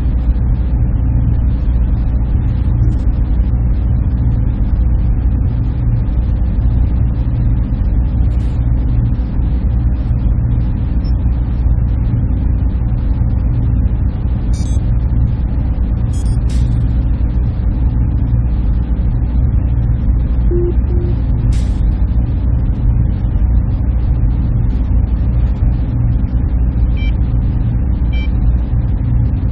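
Steady drone of server room machinery: a deep hum with a held tone above it and an even hiss, with a few faint ticks.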